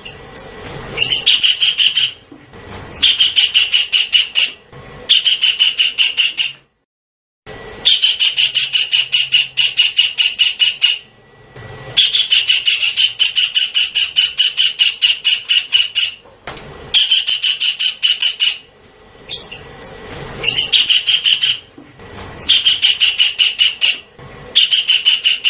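Javan kingfisher calling in a series of rapid chattering bouts. Each bout is one to four seconds of fast, sharp repeated notes, with short pauses between bouts.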